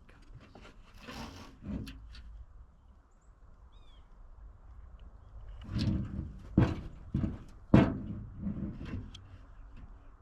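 A run of close thumps and rustles, a few at the start and a denser cluster about six to eight seconds in, the kind made by someone shifting position and handling gear in the snow. A faint short bird chirp comes about four seconds in.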